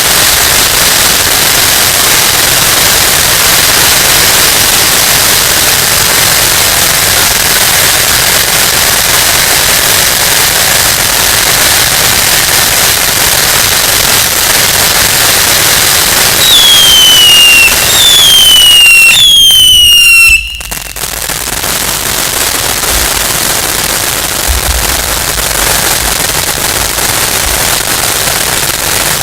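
Fireworks going off in a dense, continuous rattle of crackling bangs. Three falling whistles sound about two-thirds of the way in, then the level drops abruptly and quieter crackling carries on.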